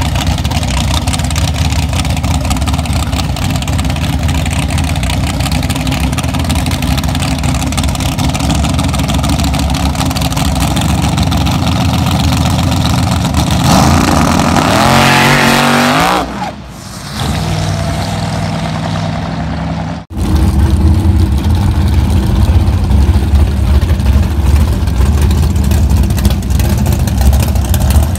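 Car engine idling loudly at a drag strip starting line, then revved hard about halfway through, its pitch climbing for about two seconds before dropping away suddenly. Steady loud engine running follows.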